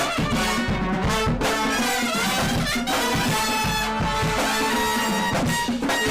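A live band playing upbeat music with brass and drums.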